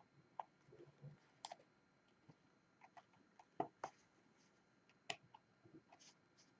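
Light, irregular clicks and taps of a diamond painting pen picking up resin drills and pressing them onto the sticky canvas, the loudest a pair of sharper clicks about three and a half seconds in.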